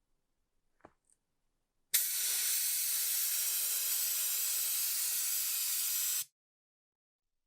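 Pressurised spray hissing steadily for about four seconds, starting and stopping abruptly, like an aerosol can or a compressed-air jet being triggered. A faint click comes just before it.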